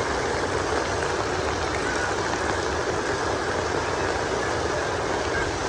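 Heavy rain falling, a steady, even hiss with no letup.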